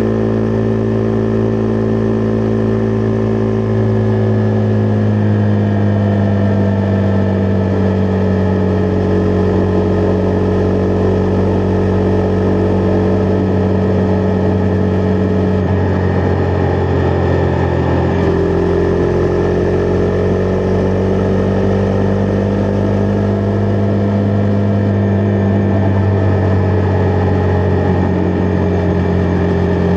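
Single-cylinder engine of a Husqvarna Vitpilen 401 motorcycle running at steady road speed. The engine note eases down a little several seconds in, dips briefly about halfway through, then picks up again.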